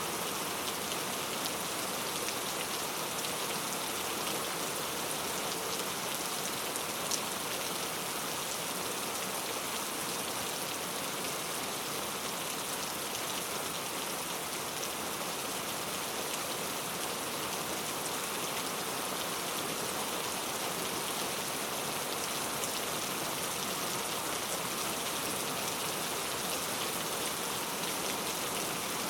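Steady rainfall, an even hiss of drops with fine individual patters throughout and one slightly louder drop about seven seconds in.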